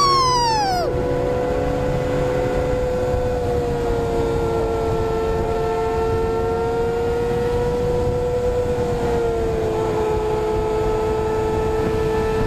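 Sport motorcycle engine revving sharply up and back down, then holding a steady high-rpm cruise, heard through a helmet camera with wind noise.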